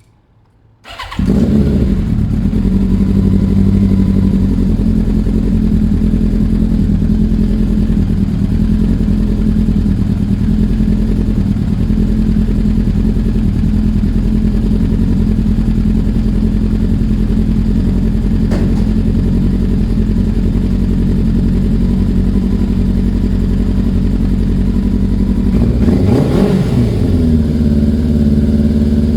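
Yamaha Thunderace's four-cylinder engine starting about a second in and idling steadily as it warms up, with one brief rev near the end.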